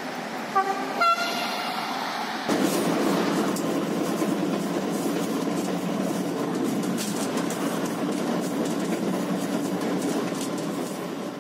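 A passenger train's horn gives two short toots, the second higher and brighter. Then, from about two and a half seconds in, a train running along the track makes a steady rumble and clatter.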